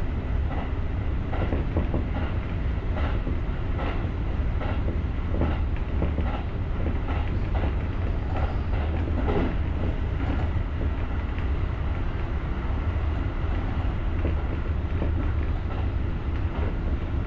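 Electric commuter train running along the line, heard from the driver's cab: a steady low rumble with the wheels clicking over rail joints, the clicks coming thickest in the first half.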